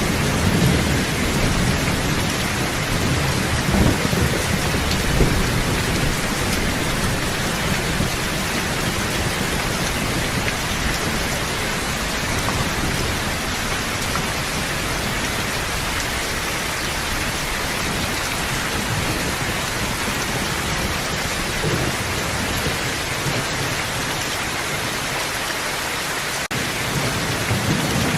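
Steady heavy rain, an even hiss of drops on surfaces, with a low thunder rumble under it that swells in the first few seconds and again near the end.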